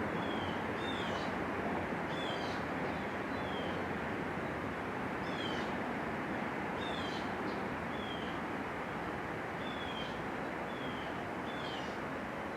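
A bird repeats a short, high, falling chirp roughly once a second, irregularly spaced, over a steady rushing background noise.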